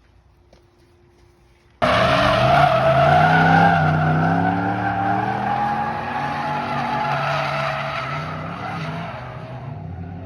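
Drift truck's engine revving while its tyres squeal in a slide. The sound starts abruptly about two seconds in, after a quiet start, and slowly fades toward the end.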